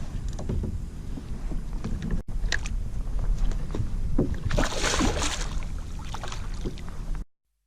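Wind rumbling on a small action camera's microphone aboard a kayak on open water, with scattered knocks and a louder hissing rush about five seconds in. The sound cuts off abruptly shortly before the end.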